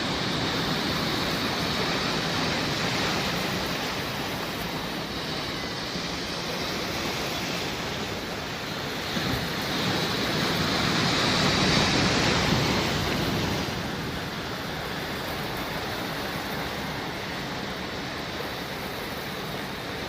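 Sea waves washing onto a shore: a steady rushing that swells to its loudest a little past halfway, then eases back.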